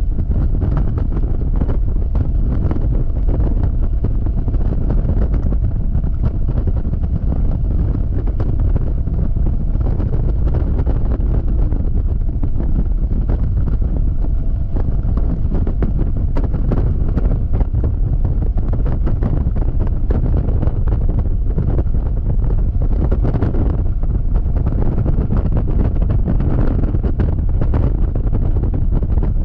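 Heavy wind buffeting on the camera's microphone from riding a scooter at highway speed: a steady, loud rumble. A faint steady tone runs under it through the middle.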